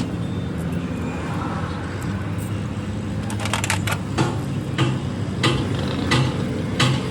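Sharp knocks repeating about every two-thirds of a second, starting about halfway in, over a steady low hum.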